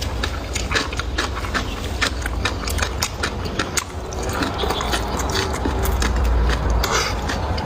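Close-up eating sounds: a person chewing with many short wet mouth clicks and smacks, over a steady low rumble.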